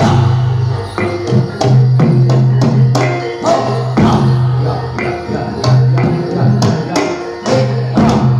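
Jatilan (kuda lumping) accompaniment music: a percussion ensemble with hand-drum strikes about twice a second over a low held tone that returns in a repeating cycle.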